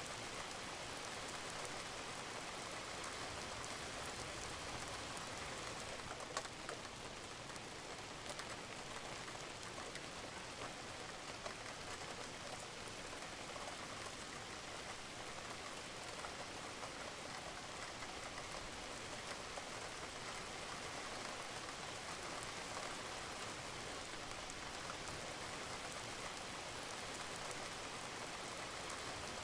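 Steady rain falling on a roof, with scattered drops and a few sharper drip ticks.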